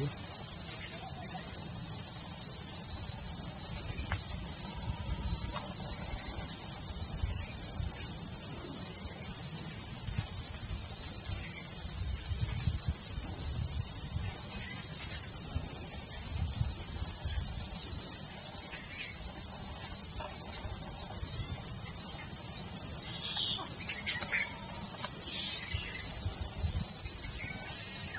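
Loud, steady insect chorus: an unbroken shrill, high-pitched drone, with a few faint bird calls near the end.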